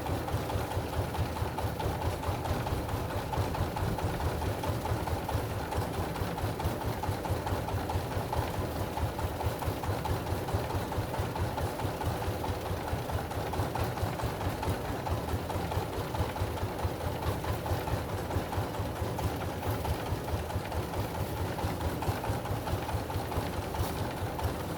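Engine running steadily with a fast, even pulse and no change in speed.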